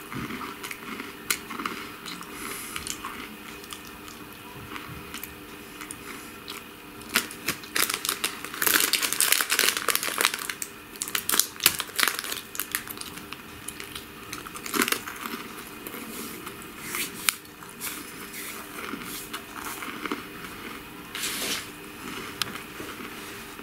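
Close-miked eating sounds: a person chewing food, with scattered sharp clicks and crackles and a dense stretch of crackling from about eight and a half to ten and a half seconds in.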